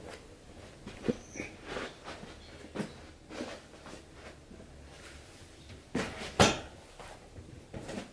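Scattered knocks and clicks, as of things being handled or set down in a small room, the loudest a pair of knocks about six seconds in.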